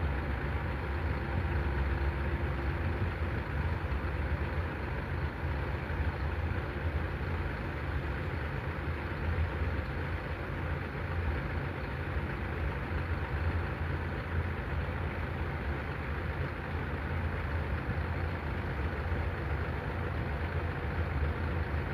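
Heavy truck diesel engine idling steadily, with a low, unchanging running sound.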